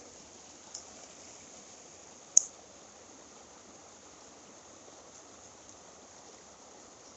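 Mountain stream water rushing steadily, with a faint click just under a second in and a sharp, loud click about two and a half seconds in.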